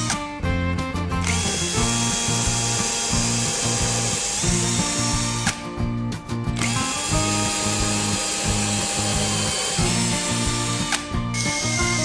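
A power tool running over background music, its high whirring noise cutting out briefly near the start, for about a second midway and again briefly near the end.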